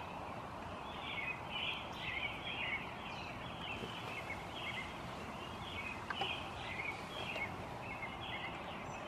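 Birds chirping and singing in short, repeated phrases, over a faint steady background hiss.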